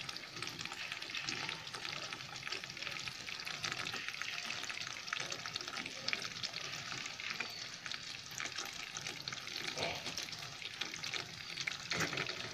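Chicken and potato curry frying in a kadai over a gas flame: a steady sizzle with fine crackling, and a few light clicks near the end.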